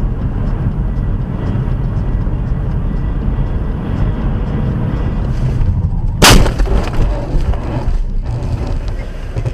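Steady low rumble like a vehicle in motion, then one loud sharp bang about six seconds in, with a few smaller knocks after it.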